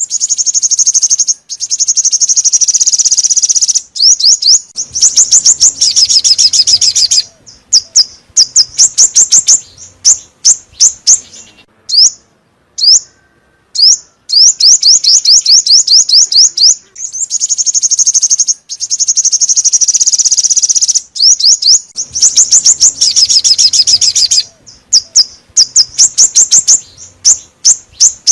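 Loud, rapid chirping song of the bird sold in Vietnam as 'chim 5 màu' (five-colour bird), played as a lure call for trapping. Several-second runs of fast high chirps alternate with spaced single notes and short pauses, and the sequence repeats about halfway through as a loop.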